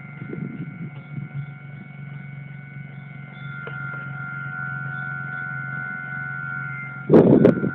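Railway level-crossing warning bell ringing steadily over a low rumble that grows a little louder, then a loud, brief rush of noise near the end.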